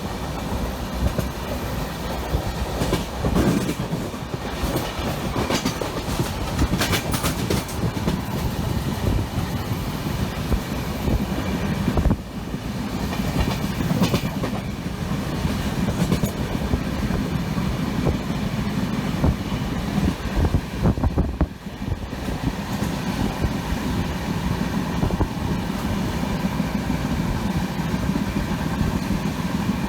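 Indian passenger train running along the track, a steady rumble with the wheels clattering over rail joints and scattered knocks.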